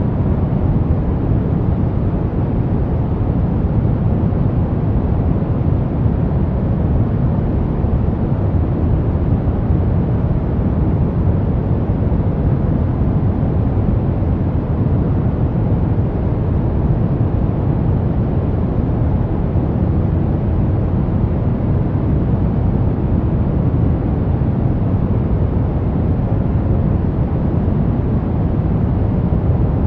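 Brown noise: a steady, unchanging low rumble of random noise, strongest in the bass and fading toward the treble.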